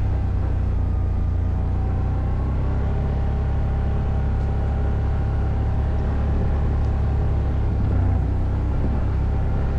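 ATV engine running at a steady pace, its pitch drifting a little, over a heavy low rumble.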